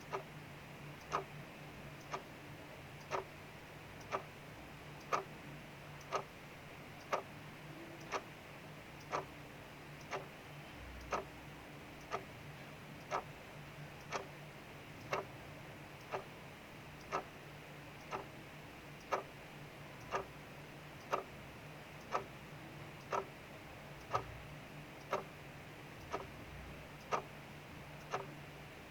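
Clock ticking steadily about once a second over the steady hiss of rain falling outside.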